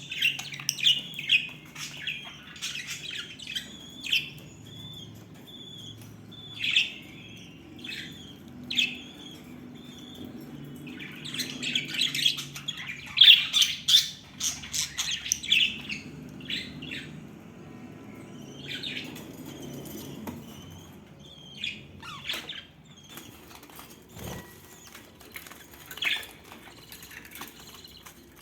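Budgerigars chattering in short, irregular bursts of chirps, with brief pauses between them.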